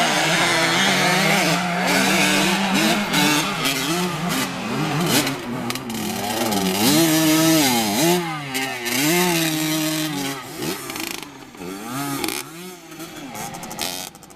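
Small 50cc motocross bike engines revving up and down as they ride, the pitch rising and falling through the throttle changes. The sound grows weaker and fades near the end.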